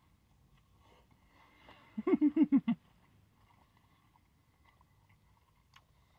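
A man chewing a mouthful of crispy fried chicken finger, with faint mouth clicks. About two seconds in comes a brief hum from him in six or seven quick pulses, a pleased "mm-mm-mm" while he chews.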